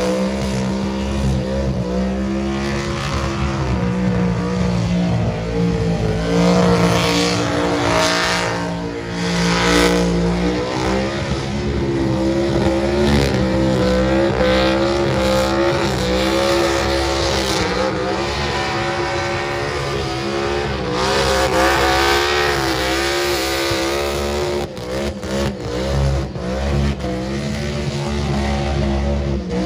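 Supercharged engine of a Holden ute held at high revs through a burnout, its pitch wavering up and down as the throttle is worked, with the rear tyres spinning in the smoke. Near the end the revs drop and pick up again in short stabs.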